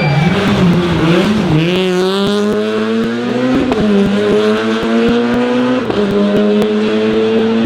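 Rally car engine accelerating hard, its pitch rising steadily and dropping sharply twice, about three and a half and six seconds in, as it shifts up through the gears.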